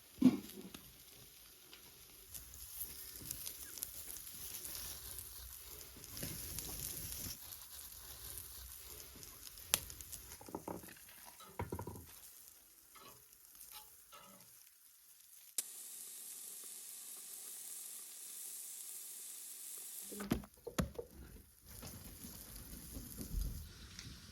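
Small handling sounds, scattered clicks and knocks, with a steady hiss lasting about five seconds in the second half that cuts off sharply.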